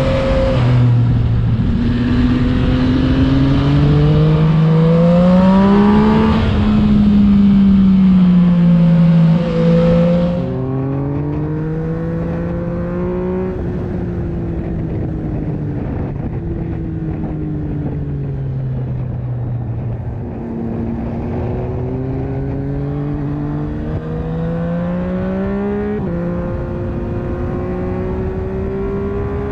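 Yamaha MT-09 (FZ-09) three-cylinder engine through an Akrapovic exhaust, ridden hard: the note climbs and drops back at each upshift, with a rushing noise over it for the first ten seconds. After that it runs quieter, the pitch falling and rising again through several more gear changes.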